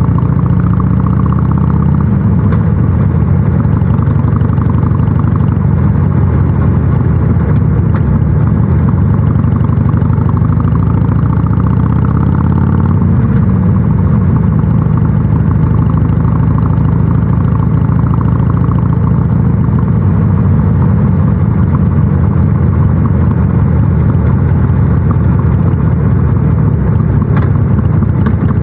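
Harley-Davidson Sportster 883 SuperLow's air-cooled V-twin running under way through North American-spec mufflers. The engine note climbs for several seconds past the middle, then falls back and settles into steady cruising.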